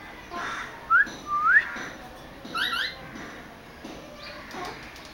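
Pet parrot whistling: a short rising whistle and then a longer one that dips and sweeps up, followed by two quick rising notes about a second later.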